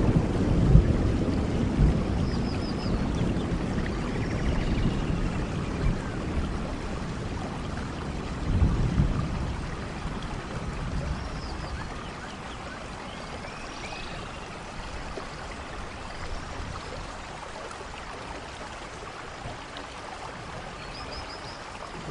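Steady rain falling on forest leaves and ground. A low rumble of distant thunder is loudest at the start and swells again about nine seconds in, then dies away, and a few faint high chirps sound now and then.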